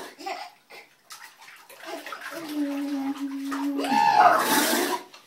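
A toddler making silly vocal noises on request: a steady low hum held for over a second, then a loud, harsh screech that rises and falls in pitch about a second before the end.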